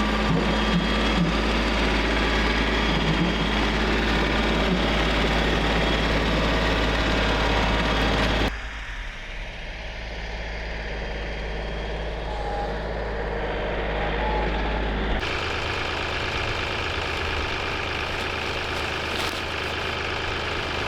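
A vehicle engine idling steadily. The sound changes abruptly twice, about eight seconds in and again about fifteen seconds in, then carries on running.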